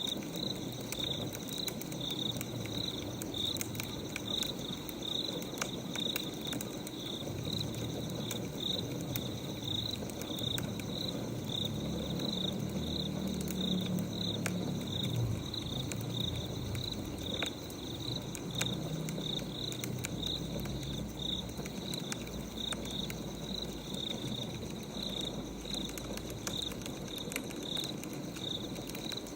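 Crickets chirping steadily, about two to three chirps a second, over scattered small crackles like burning firewood. A soft low rustle comes up through the middle.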